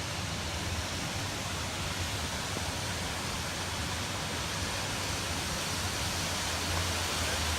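Waterfall's steady rushing water, growing a little louder near the end.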